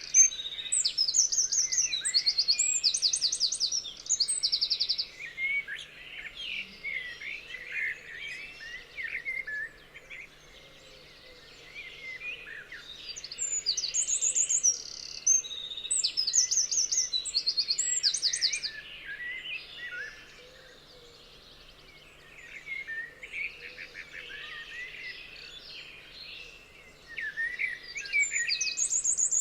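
Several birds singing together in a dawn-chorus style mix. One bird repeats a fast, high trill in loud bouts at the start, about halfway through and again near the end, and quieter chirps and whistles from other birds fill the gaps between.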